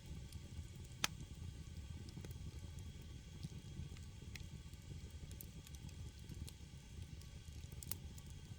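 Firewood burning in a Korean agungi firebox: a steady low rumble of the fire with scattered sharp crackles and pops, the loudest about a second in.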